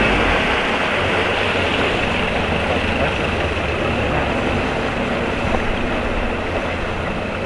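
Rescue boat under way: a steady engine drone mixed with rushing water and wind noise, starting and stopping abruptly at cuts.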